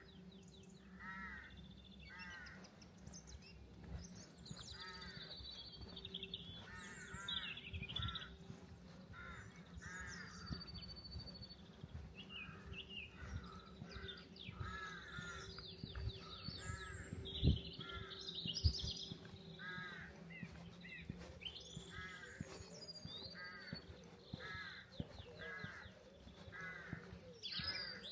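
Crows or other corvids cawing over and over, about one call a second, with small birds chirping and twittering higher up. A steady low hum lies underneath, and two sharp knocks sound a little past the middle.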